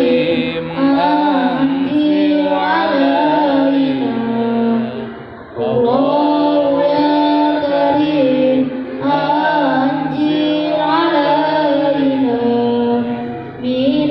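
Melodic chanting of a Muslim prayer for rain: voices sustain long notes with wavering ornaments, and pause briefly for breath about five and a half seconds in and again near the end.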